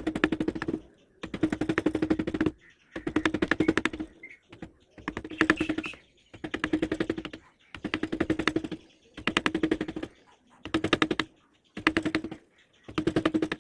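Hand tool worked in regular strokes across teak wood, about ten strokes, each a rapid run of clicks lasting about a second with a short pause between.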